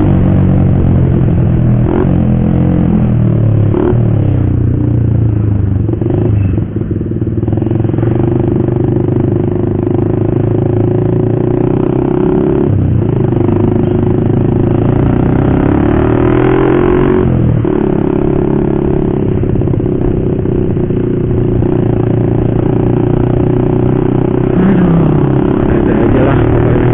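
Motorcycle with a loud aftermarket racing exhaust under way, its engine note climbing under throttle and dropping sharply several times as it shifts gears.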